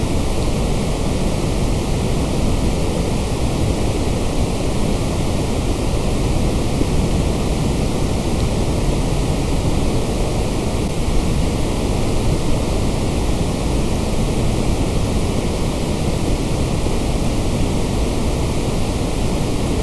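Continuous electronically generated noise, steady and unchanging, fuller in the low end than in the highs.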